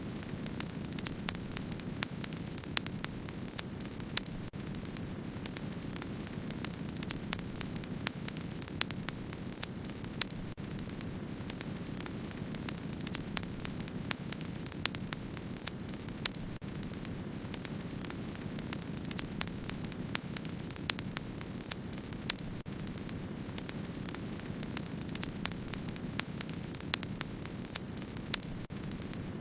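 Wood fire burning: a steady low rush with many small crackles and occasional sharper pops scattered throughout.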